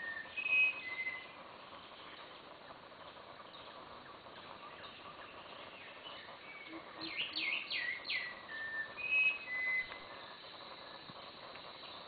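A bird singing a phrase of four quick falling notes followed by a few short, level whistles. The phrase trails off in the first second and comes again in full about seven seconds in, over a steady faint hiss of forest background.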